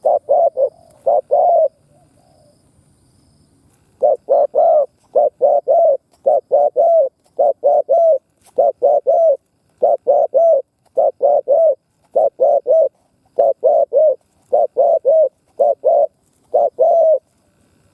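Spotted dove cooing in quick, stammering runs of short low coos, two or three to a group. There is a gap of about two seconds near the start, then the coos run almost without break until just before the end.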